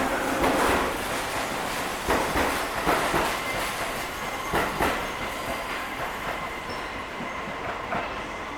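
Tobu 8000-series electric train pulling out, its wheels clacking over rail joints and points in close pairs, with a thin steady high tone. The sound fades gradually as the train moves away.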